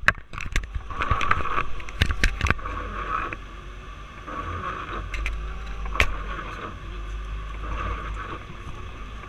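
Tractor engine running with a steady low rumble, overlaid by a run of sharp clicks and knocks in the first two and a half seconds and one more about six seconds in.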